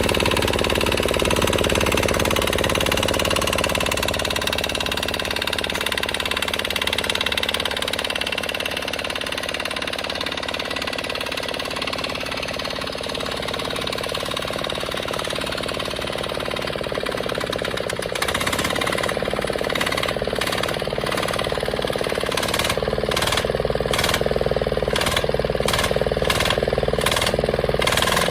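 Restored diesel engine running steadily, its sound shifting about 18 seconds in and taking on a regular pulsing, about two beats a second, near the end.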